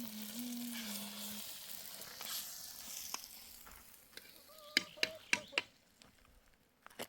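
Food sizzling on a hot surface, a steady hiss that slowly dies away over the first few seconds, with a low buzzing tone over it for the first second and a half. A few sharp clicks or taps follow past the middle.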